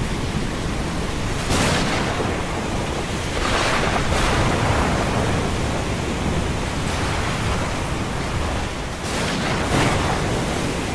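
Ocean surf: a steady, low rumble of waves with several hissing washes of breaking water, about five in all, clustered near the start and again near the end.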